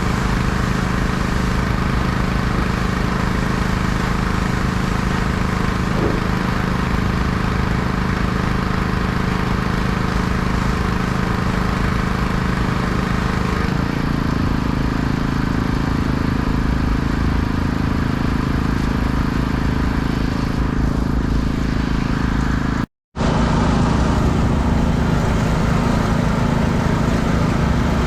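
Small engine of a pressure washer running steadily under a hiss of spray. Its tone shifts lower and heavier about halfway through, and the sound cuts out for a moment near the end before carrying on.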